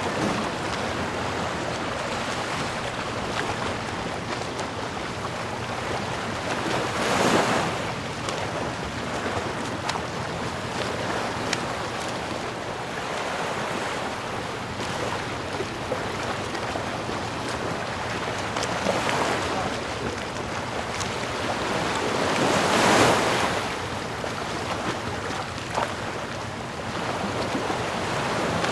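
Ocean surf: a steady wash of waves, with a larger wave breaking about seven seconds in and another, the loudest, a little past twenty seconds.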